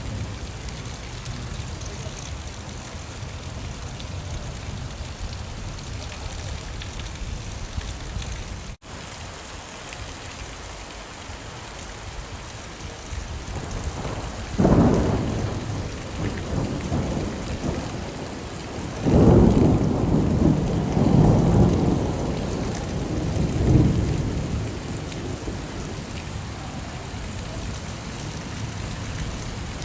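Steady rainfall hiss with thunder rumbling twice: a short roll about halfway through and a longer, louder roll a few seconds later. The rain cuts out for an instant about nine seconds in.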